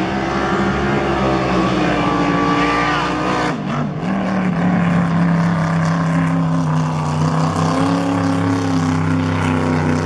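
Motorboat engine running steadily at low revs, its pitch wavering slightly, with a brief dip about three and a half seconds in.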